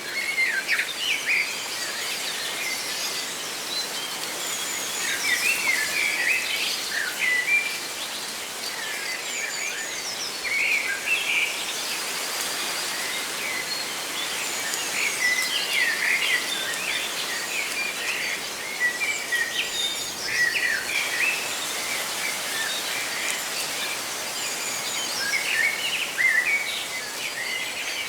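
Several birds chirping in repeated flurries of short, quick calls over a steady hiss of rustling leaves.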